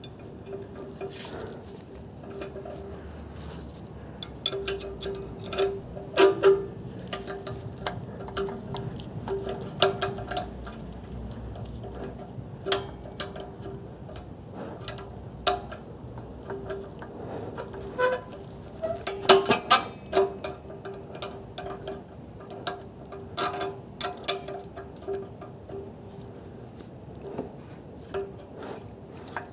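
Irregular clicks and taps, some in quick clusters, over a steady hum in a Hyundai Elantra's engine bay.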